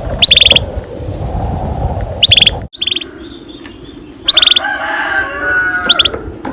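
Canaries singing: loud, short bursts of rapid repeated high notes about every one to two seconds, with softer warbling between them in the middle stretch.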